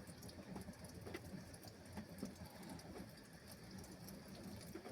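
Faint bird cooing against a quiet background, with a few small clicks.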